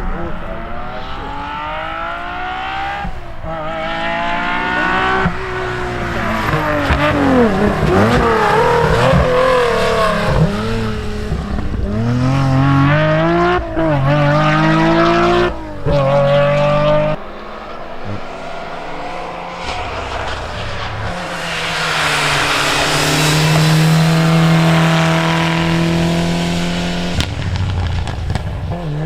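Rally car engine revving hard at high rpm, its pitch climbing and then dropping sharply several times as the driver shifts gear and lifts off, with a long, loud, sustained pass near the end.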